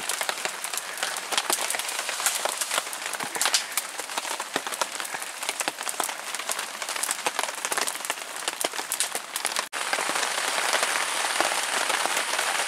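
Rain falling on tarps, a dense run of drops and small ticks. About ten seconds in it breaks off for an instant and turns to a steadier hiss.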